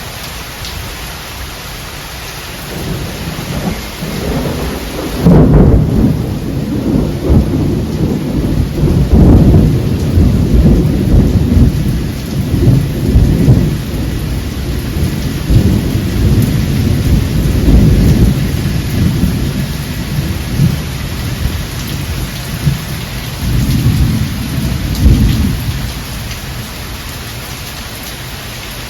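Steady heavy rain with thunder: a rumble builds, then a loud clap breaks about five seconds in and rolls on in long low rumbles for some twenty seconds, swelling once more near the end before fading back to just the rain.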